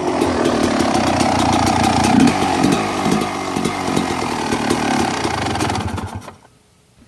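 1996 Yamaha YZ250's two-stroke single-cylinder engine running and being revved, its pitch rising and falling, then shut off about six seconds in.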